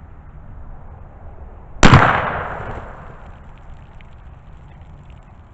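A single gunshot from a Hi-Point 1095 10mm pistol-caliber carbine firing a hot-loaded Buffalo Bore 180-grain jacketed hollow point, about two seconds in, its report fading away over about a second.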